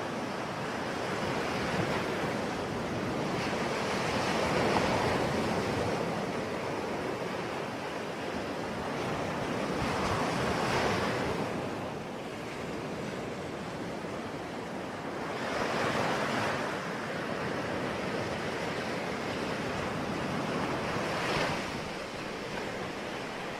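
Ocean waves breaking on a shore: a steady wash of surf that swells as a wave breaks every five or six seconds.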